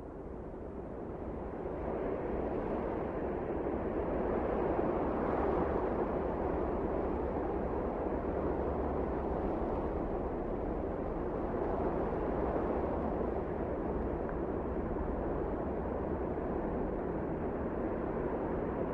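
Strong wind blowing steadily in a snowstorm, a continuous rush with a low rumble beneath. It swells over the first couple of seconds, then holds with small gusts.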